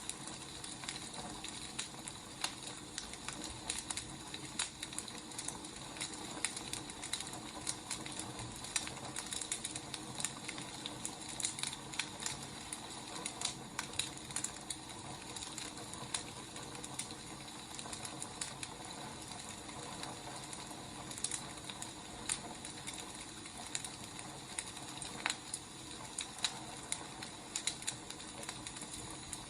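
Burning firewood crackling, with frequent irregular sharp pops and snaps over a steady soft hiss.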